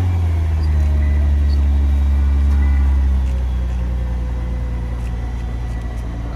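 Nissan GT-R's twin-turbo V6 idling just after start-up, a steady low engine note. About three seconds in, the fast idle eases down and becomes quieter.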